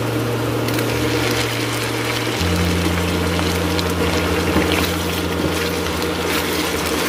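Pork belly adobo sizzling in hot butter and oil in a nonstick wok as it is tipped in and turned with silicone spatulas: a steady crackling fry. A low steady hum sits underneath and shifts pitch about two and a half seconds in.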